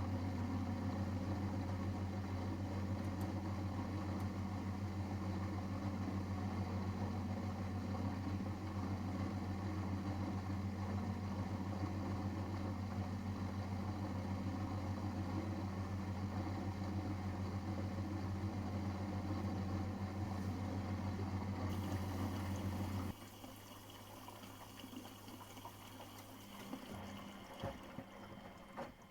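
Miele Professional WS5436 commercial washing machine running with a loud, steady low hum and water noise. The hum stops abruptly about three-quarters of the way through, a higher hiss of water plays briefly, and a few clicks follow near the end.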